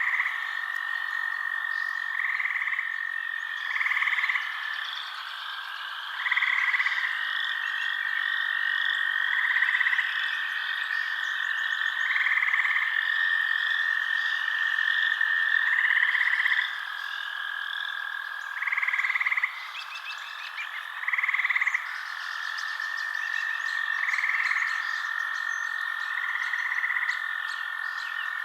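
Night chorus of frogs calling over a steady high trill, with a louder call standing out every two to three seconds and a faster chirping above it.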